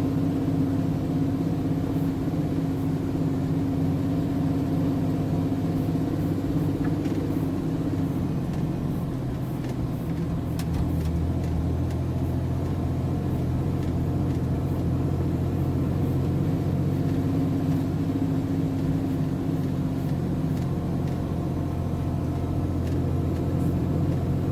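Diesel engine of a MAN TGS 33.480 truck running steadily, its pitch dropping a little about ten seconds in and then holding.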